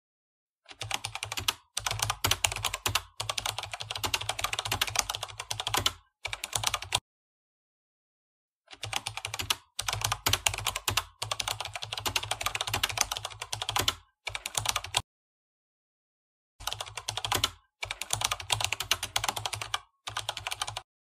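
Computer-keyboard typing sound effect: rapid key clicks in three runs of about four to six seconds each, with short breaks inside each run and dead silence between runs. It goes with on-screen text typing itself out.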